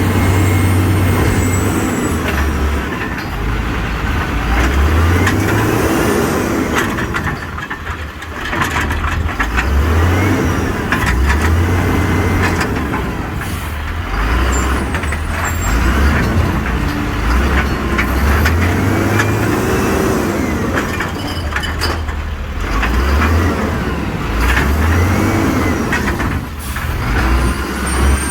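Old garbage truck working a recycling route: its engine revs up and drops back again and again, with rising and falling whining tones above it and a few brief sharp bangs.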